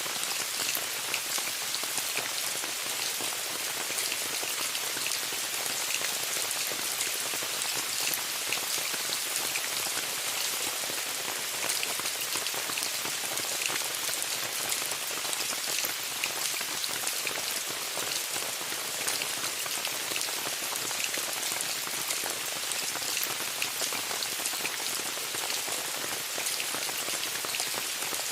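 Steady rain falling on a tent, an even hiss of many small drop impacts that does not let up.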